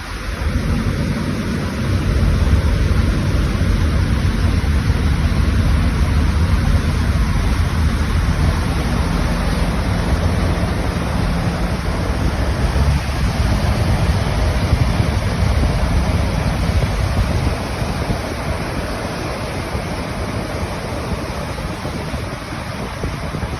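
Pilot boat running on the water, with wind buffeting the microphone over the rush of water and a faint steady engine hum. The low rumble eases somewhat after about 17 seconds.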